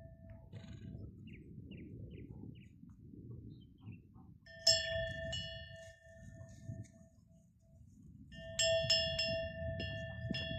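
A metal neck bell on grazing animals clanking: one ringing strike about halfway through, then a quick run of several strikes near the end, each leaving a sustained metallic ring.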